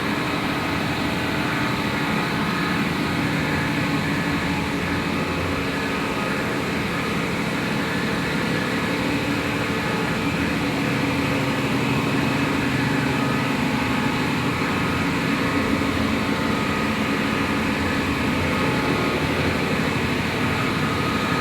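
Engine-room machinery on a tug boat running with a steady, loud drone and a hum of several steady tones that does not change.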